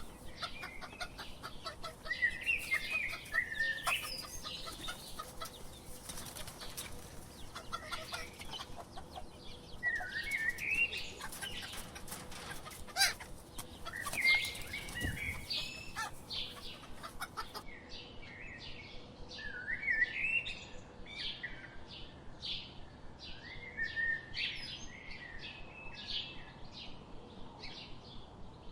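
Chickens clucking, a string of short calls that bend up and down in pitch, with many sharp clicks and scuffling sounds among them.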